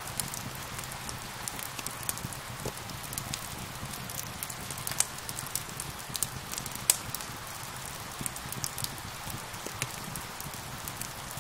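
Steady rain hiss mixed with the irregular snaps and pops of a crackling wood fire, with two louder pops about five and seven seconds in.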